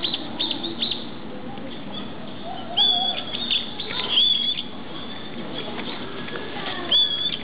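Three short whistled bird calls, each a clear high note held briefly and then flicking upward, about three, four and seven seconds in. Between them come a few light clicks and a low background murmur.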